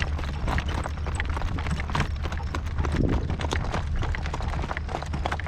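Horse's hooves clip-clopping at a steady trot on a road, with wind rumbling on the microphone.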